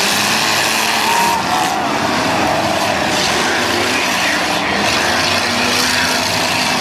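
Several demolition derby cars' engines running and revving at once, a loud steady din with pitches rising and falling as the cars accelerate and back off.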